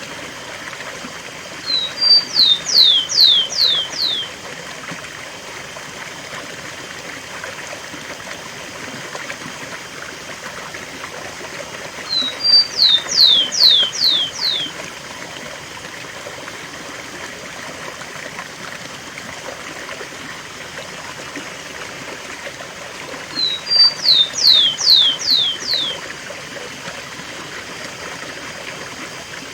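Rufous-collared sparrow (tico-tico) singing its 'cemitério' song three times, about every eleven seconds. Each phrase is two short high notes followed by four quick downslurred whistles. A waterfall rushes steadily underneath.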